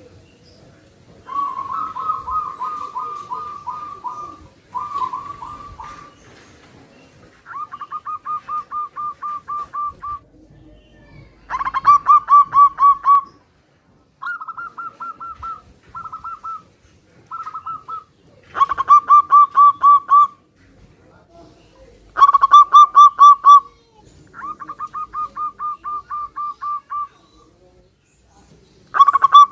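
Zebra doves calling back and forth in phrases of rapid, rolling coo notes. Each phrase lasts one to two and a half seconds, and they follow one another with short gaps, about ten in all. Some phrases are loud and close, others softer, as different birds answer each other.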